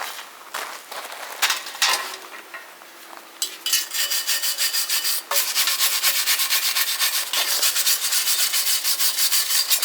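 Sandpaper being rubbed by hand over an old hand pump in quick back-and-forth strokes, starting with coarse 120 grit. A few separate scrapes come first, then steady rapid sanding from about a third of the way in.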